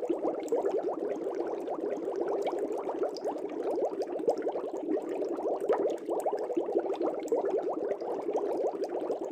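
Air bubbles streaming up through a fish tank's water: a dense, steady bubbling made of many quick little blips.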